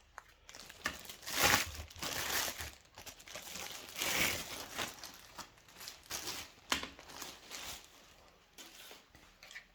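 Irregular crinkling and rustling of plastic with a few sharp clicks as a vacuum cleaner's plastic extension pipe is handled and fitted.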